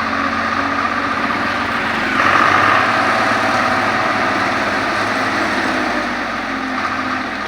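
Diesel engine of a road-repair machine running steadily, growing louder about two seconds in.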